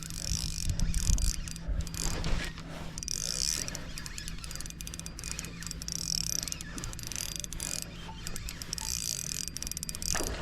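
Fishing reel cranked steadily to bring in a hooked bass, its gears whirring with rapid clicking.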